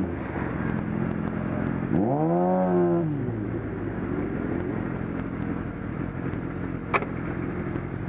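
Car engine running over a steady low road rumble, its pitch rising and falling once about two seconds in as it revs up and back down; a single sharp click near the end.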